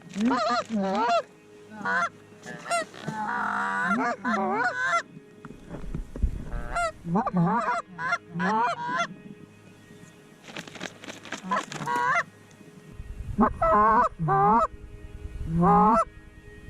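Geese honking: repeated loud honks and clucks in quick clusters, with short pauses between the bursts.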